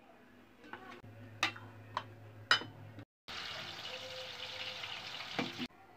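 Chaap pieces frying in hot oil in a kadai: an even, crackling sizzle that cuts in sharply about three seconds in and runs for over two seconds. Before it come a few light knocks while the spiced batter is made in a steel bowl.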